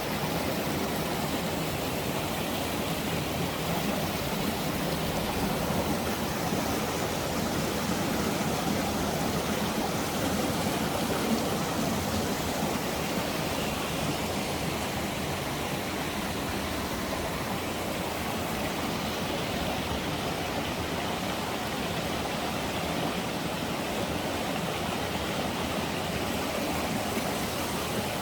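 Steady rushing of flowing water, like a stream running, unbroken and even throughout.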